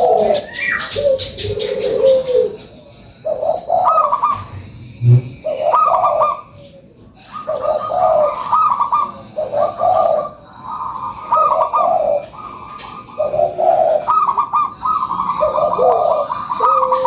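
Zebra doves (perkutut) cooing in a run of repeated, trilling phrases, one after another with short pauses between them.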